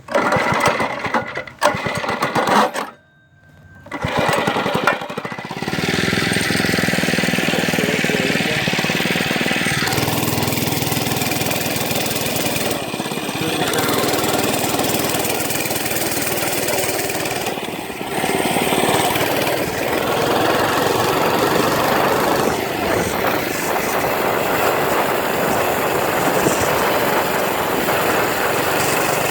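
Monster Moto mini bike's small single-cylinder engine running as the bike is ridden, with wind buffeting the microphone. The sound stutters and drops out briefly about three seconds in, then picks up and runs steadily.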